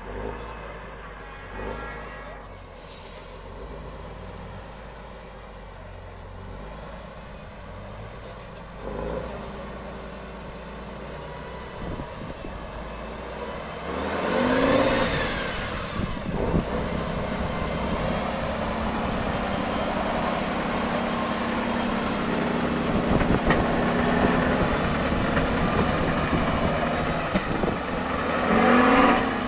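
Heavy off-road trial truck's engine working over the course. It is quieter at first, revs up and down about halfway through and then runs louder, with another rev near the end.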